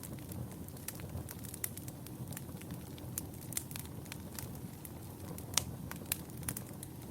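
Wood fire burning in a fireplace: a low steady rumble of flames with frequent irregular crackles and pops, the sharpest pop about five and a half seconds in.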